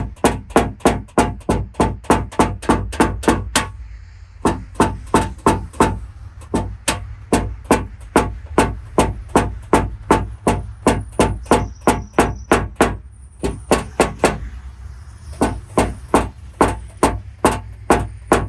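Quick, light hammer taps on a tap-down tool against a car fender's sheet metal, about four a second, in runs broken by short pauses: tapping down high spots in paintless dent repair.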